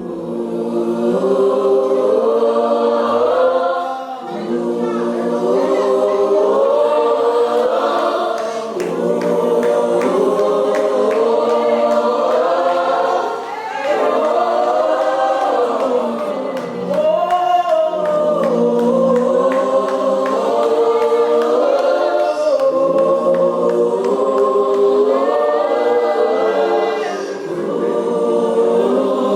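A choir of worship singers singing a slow gospel worship song, with many voices holding long notes together. The sound dips briefly between phrases.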